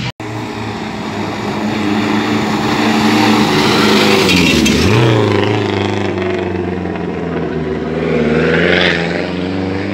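Lancia Delta Integrale rally car driving past. Its engine grows louder and drops in pitch as it goes by, about five seconds in, and engine sound continues after it.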